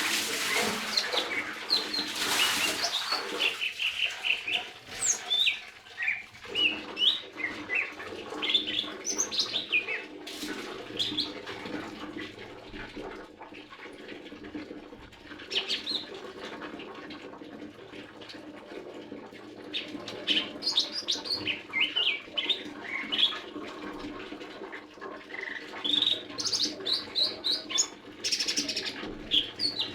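Lesser green leafbird chirping in bursts of short, quick notes, thinning out for a while in the middle before picking up again.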